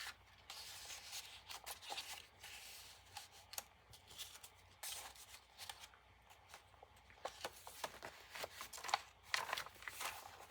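Paper, card and fabric pages of a handmade journal rustling and crinkling as they are handled, with scattered light taps and clicks.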